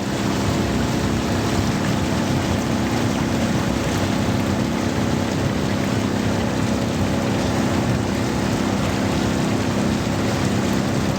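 Small outboard engine of a river raft running steadily, with an even hiss of rain and water over it.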